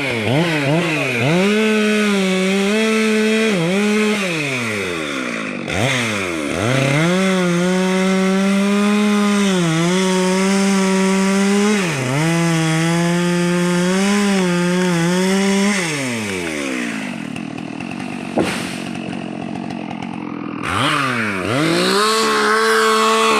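Chainsaw cutting a rubber tree, held at high revs with the pitch dipping and recovering several times. Past the middle it drops back to a lower idle for about five seconds, then revs up again near the end.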